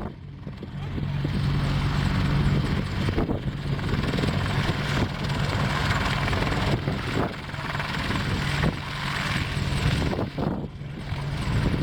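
Apache attack helicopter running, a steady mix of rotor noise and turbine engine sound with a low hum underneath.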